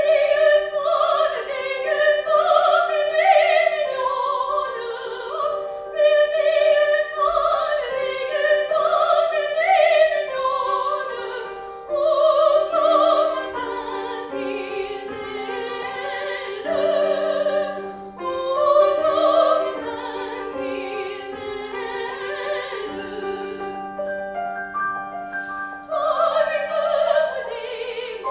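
Classical solo singing in a high voice with vibrato, operatic in style, over piano accompaniment, sung in phrases with short breaths between them.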